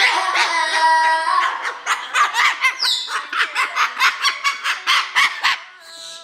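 A parrot vocalizing: a held, sung note for about a second and a half, then a fast run of short, sharp squawks at about five a second, with a falling whistle near the middle.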